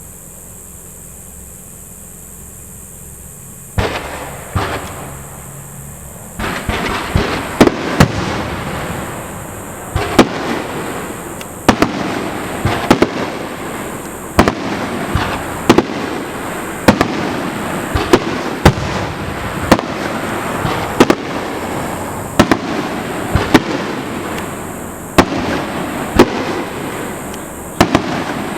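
Fireworks display: after a few quieter seconds, two sharp booms, then from about six seconds in a steady run of shell bursts roughly once a second over continuous crackling.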